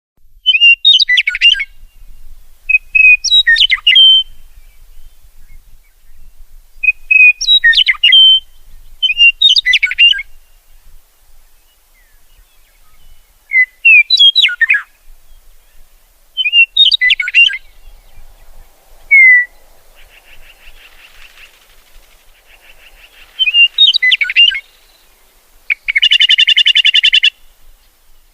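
Songbird singing short, loud, repeated phrases about every two to three seconds, each a clear whistled note followed by quick down-slurred notes. A faint buzzy trill comes about two-thirds of the way in, and near the end a loud, harsh, buzzy rattle call lasts about a second and a half.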